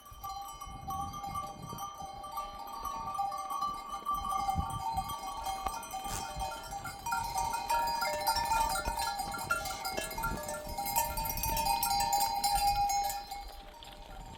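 Bells on a moving herd of sheep and goats ringing steadily, several tones together, over the low patter of the animals' hooves.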